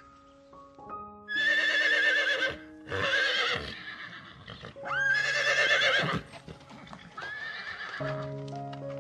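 A horse neighing twice. Each is a long wavering whinny followed by a shorter call, over light background music.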